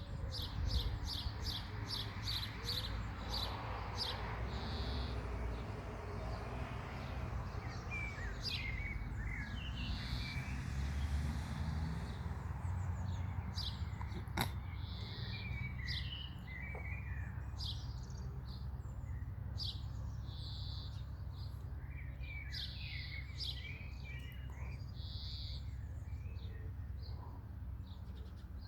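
Small birds chirping: many short, high repeated chirps, with a few bursts of quicker twittering. A steady low rumble runs underneath.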